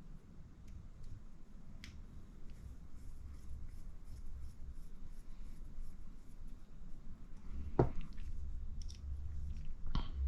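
Quiet hand-handling noise of a small oil-filled RC buggy shock absorber being worked to pump aerated shock oil out through its bleed screw hole, with faint ticks throughout and two sharper clicks about eight and ten seconds in.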